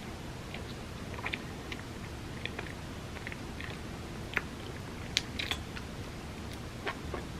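Close-miked chewing and biting of a vegan ice cream sandwich: soft, scattered wet mouth clicks and smacks, with a couple of sharper clicks about four and five seconds in, over a steady low background noise.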